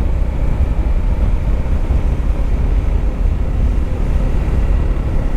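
Motorcycle riding at a steady pace: a steady engine and road rumble mixed with wind noise on the microphone.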